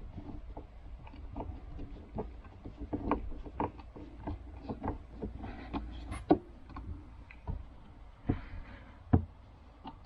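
Irregular light knocks and clicks of hands working on a wooden step with screws, with a few louder wooden thumps in the second half.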